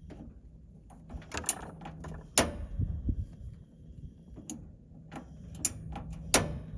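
Sharp, irregular clicks, about eight of them, as the igniter of a portable gas oven is worked to light the burner, over a faint low steady hum.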